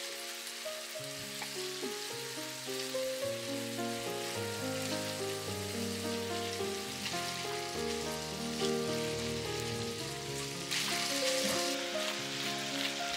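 Salmon cubes sizzling in olive oil in a frying pan, a steady crackling hiss that grows louder near the end. Soft background music with a slow melody plays underneath.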